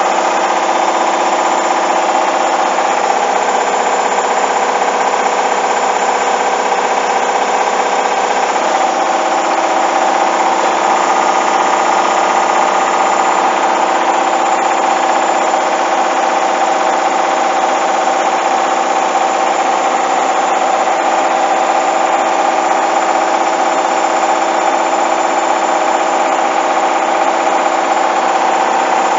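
Hoover washing machine on its high-speed spin, the motor running with a loud steady whine and the drum rattling, its pitch shifting slightly about three seconds in and again about eight seconds in. The load is unbalanced.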